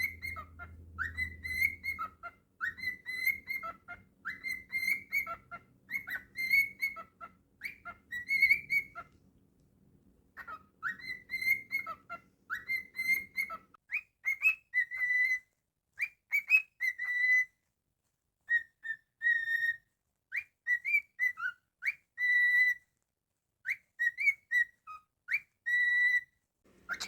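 Cockatiel whistling: a short whistled phrase that sweeps quickly up and then holds its note, repeated over and over, with a brief pause about nine seconds in.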